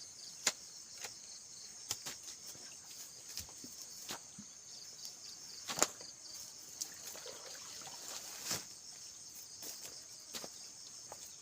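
Insects chirring steadily in a high, pulsing drone, broken by scattered sharp knocks every second or two.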